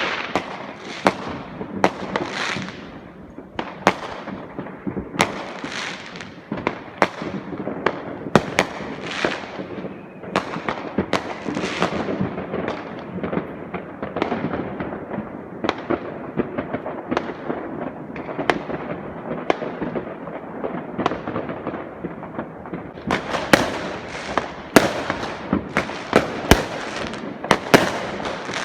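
Fireworks going off: a steady run of sharp bangs with crackling between them, coming thicker and faster near the end.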